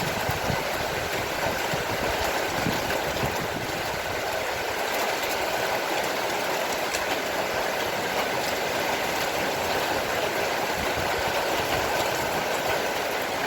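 Heavy rain falling steadily, a dense, even wash of raindrops with no letup.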